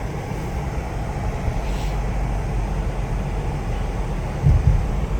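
Steady in-cabin noise of a car driving, with the heater blower running to clear the fogged windshield, and a brief louder low thump about four and a half seconds in.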